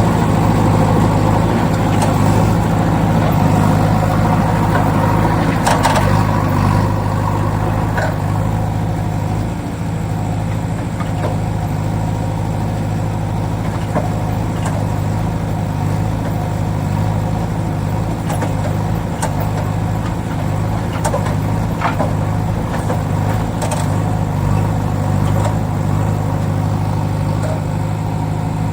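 A steady engine-like drone, even in pitch, with scattered light clicks.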